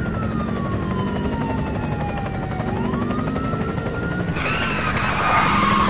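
Police car siren wailing, one slow fall and rise in pitch, over a steady low engine or rotor drone. About four and a half seconds in, a loud hissing burst joins it, like tyres screeching.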